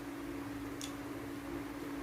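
Steady low hum with one light click a little under a second in.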